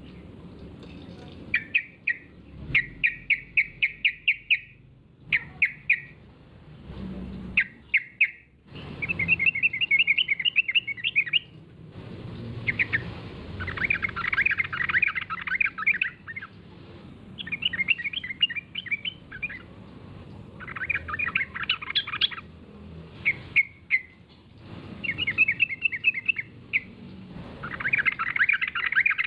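Yellow-vented bulbul (trucukan) singing: a series of short, rapid, bubbling chattering phrases, one after another with brief pauses between them.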